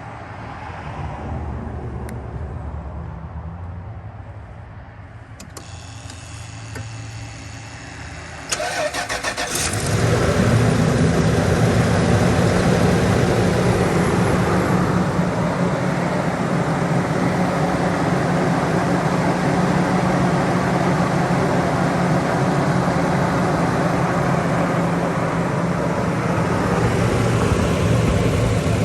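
Toyota 2UZ-FE 4.7-litre V8 starting: a low hum at first, then the starter cranks briefly about eight seconds in and the engine catches and settles into a steady idle, with engine flush mixed into the old oil and the engine not yet warm.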